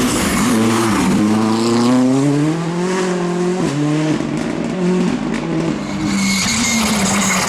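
Rally car engine pulling hard, its pitch rising for a couple of seconds, then dropping abruptly about three and a half seconds in and running on at a lower pitch. Tyre noise hisses over it in the last second or so.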